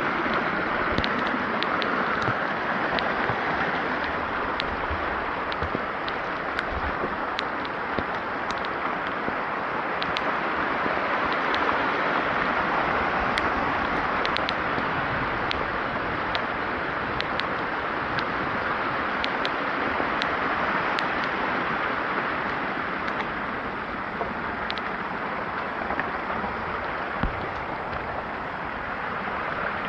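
Steady heavy rain, with many separate drops ticking sharply close by.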